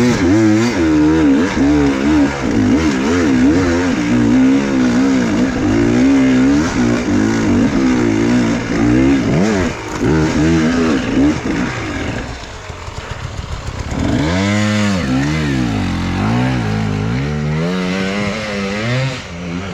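Enduro motorcycle engine revving up and down in quick surges under hard off-road riding. About twelve seconds in it drops to a low chugging for a couple of seconds, then the revs rise and fall again in long sweeps.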